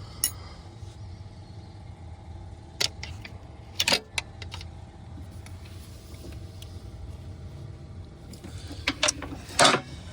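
Sharp metallic clinks and knocks of a socket and wrench against metal parts while trying to reach a buried starter bolt, scattered through, with the loudest cluster near the end. A steady low hum runs underneath.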